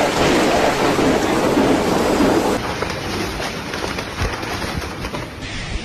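Heavy rain and strong wind in a storm: a dense, steady rushing noise that changes abruptly about two and a half seconds in and again near the end.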